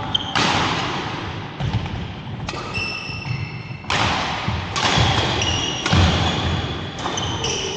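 Badminton rally: rackets striking the shuttlecock about once a second, sharp hits with short squeaks of court shoes between them.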